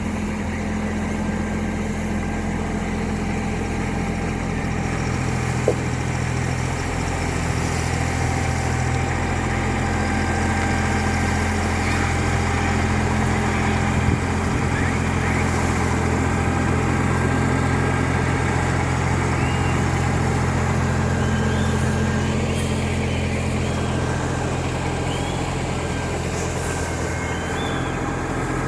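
Mini backhoe loader's engine running steadily, swelling slightly in the middle, with two short knocks, one about six seconds in and one near the middle.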